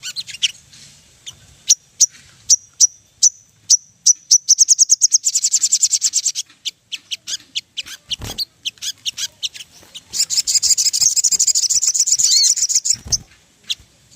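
A sogon bird singing: a string of sharp, high chirps that run into a fast trill about four seconds in, then more scattered chirps and a second dense, buzzy trill near the end. Two low thumps are heard, one past the middle and one near the end.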